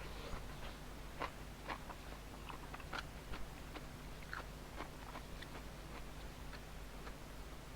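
A person chewing food close to the microphone, with scattered, irregular soft clicks and smacks of the mouth.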